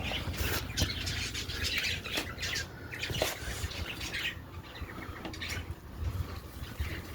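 Birds chirping and squawking, with a few light knocks.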